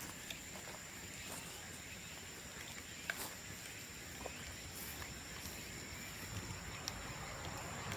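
Bamboo bonfire crackling quietly: scattered small pops and snaps, about one a second, over a low hiss.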